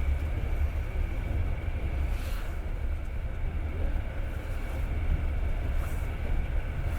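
Passenger train running along the track, heard from inside the carriage: a steady low rumble of the wheels and running gear. Two faint clacks of the wheels come about 2 and 6 seconds in.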